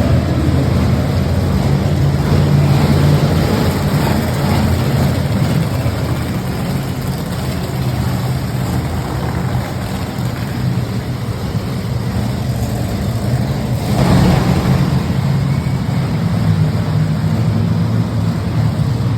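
Monster truck engine running loud and steady, surging louder about fourteen seconds in.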